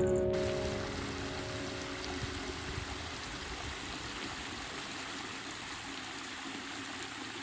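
Steady rush of a flowing forest stream, with the last piano note fading out at the very start.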